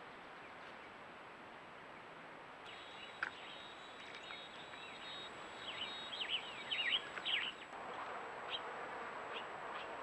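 Small birds chirping, with quick gliding calls clustered together and loudest for a second or two just past the middle, over the steady hiss of a trail camera's microphone.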